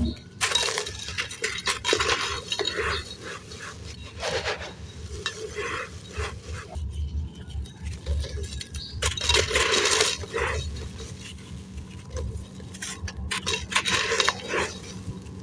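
Crispy, dry blue-dyed sand crumbling in a clay pot: irregular crunching and crackling with small clinks against the pot, coming in uneven bursts.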